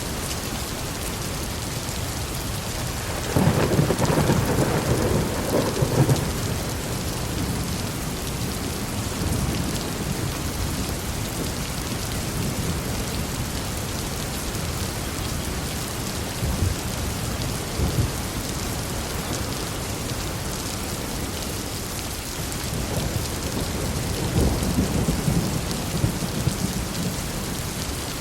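Heavy rain falling steadily, with a roll of thunder about three seconds in that rumbles for some three seconds. A second rumble of thunder comes near the end.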